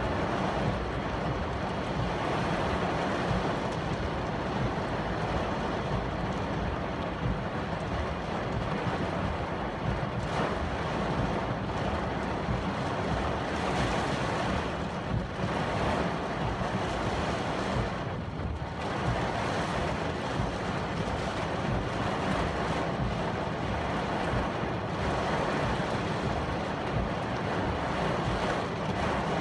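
Typhoon wind blowing hard and steadily, buffeting the microphone with a continuous rushing noise and low rumble that eases briefly about halfway through.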